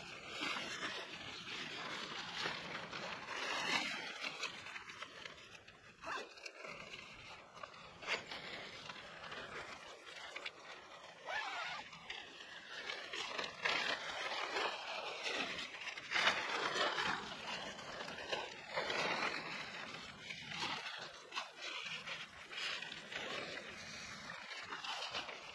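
Rain pattering steadily, a dense noise of many small irregular taps with some louder drops among them.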